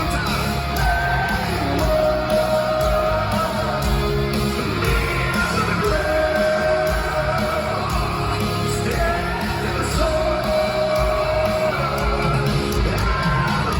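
Heavy metal band playing live with singing, heard in a large hall; long held notes come back about every four seconds, with yells from the crowd.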